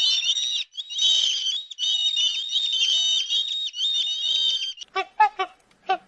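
Dense, high-pitched twittering and warbling calls, with a brief break under a second in. Near the end they give way to a white domestic goose honking in quick, short calls, several a second.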